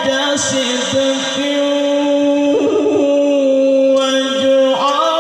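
A man's voice reciting the Qur'an in melodic tilawah style, drawing out one long held note with a wavering ornament in the middle and a step up in pitch near the end.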